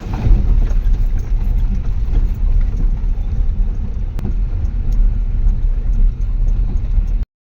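Jeep running along a rough road: a steady low rumble with a few light knocks, cutting off suddenly near the end.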